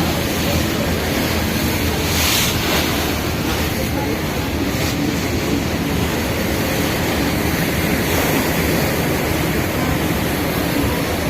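Passenger ferry under way: the engine's low steady drone under water rushing along the hull and wind buffeting the microphone, with a stronger rush of water or gust about two seconds in.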